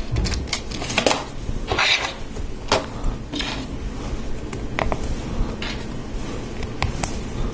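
Hard plastic Lego Technic pieces clicking and clattering irregularly as they are handled and pressed together, with a couple of brief rustles.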